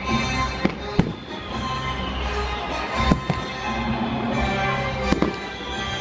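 Aerial fireworks going off, several sharp bangs a second or two apart, with music playing underneath.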